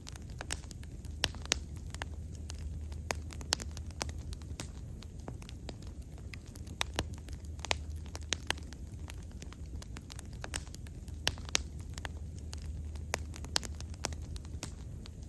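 Wood bonfire burning, with irregular sharp crackles and pops over a steady low rumble of the flames.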